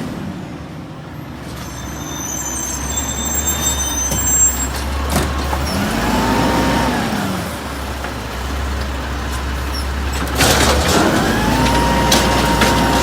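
Garbage truck engine running with a steady low hum. Twice, about six and ten seconds in, a whine rises in pitch and then holds steady. A hiss of air starts with the second rise.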